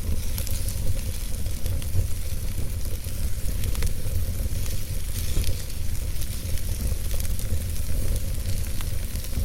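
Wood fire burning in a fireplace: a steady hiss and low rumble of flames, with scattered sharp crackles and pops from the logs.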